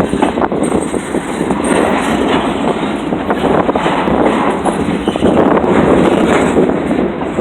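Freight train cars rolling past close by, the wheels clicking and rattling over the rail joints in a loud, steady rumble.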